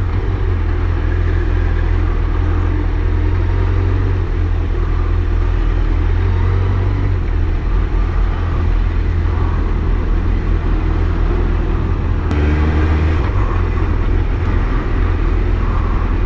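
Motorcycle engine running under way, with a steady low rumble and road and wind noise on the rider's microphone; the engine note changes about twelve seconds in.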